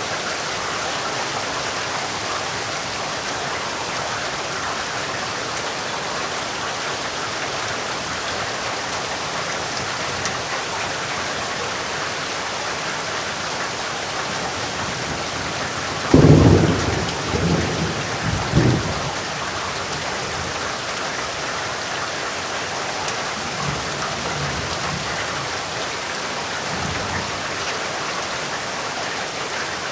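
Steady rain falling, with a sudden clap of thunder a little past halfway that rumbles on in a few peaks for about three seconds, then fainter rumbles of thunder near the end.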